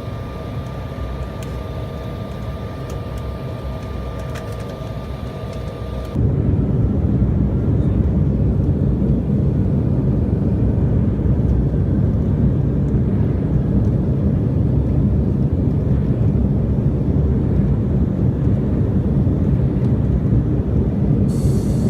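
Airliner cabin noise: a steady hum of engines and air, which about six seconds in jumps abruptly to a much louder low rumble that holds steady.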